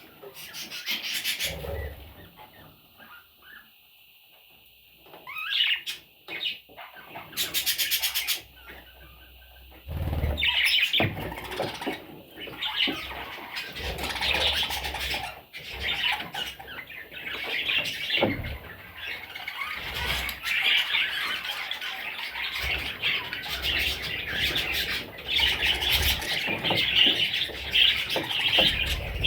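Budgerigar chicks chirping and squawking: a few short bursts of calls at first, then continuous chattering from about a third of the way in.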